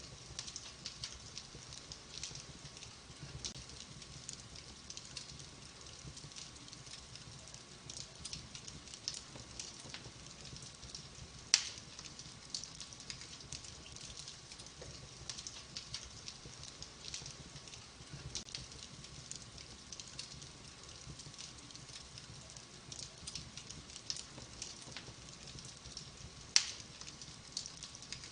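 Wood fire burning in a fireplace, crackling steadily with many small snaps. Two much louder pops stand out, one about 11 seconds in and one near the end.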